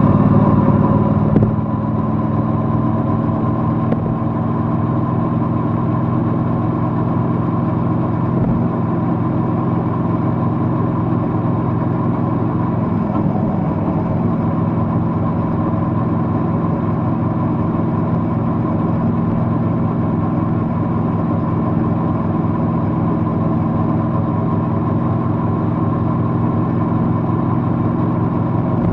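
Triumph Bonneville motorcycle's parallel-twin engine running at steady revs, dropping slightly in loudness after about a second and a half and holding an even note after that.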